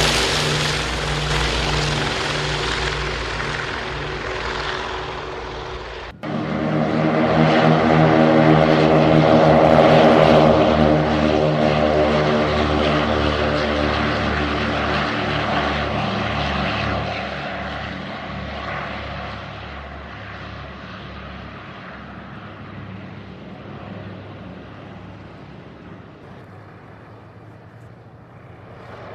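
Piston-engine propeller aircraft passing: one engine sound fading, then after an abrupt cut about six seconds in, another plane's engines swell to their loudest a few seconds later and slowly fade away.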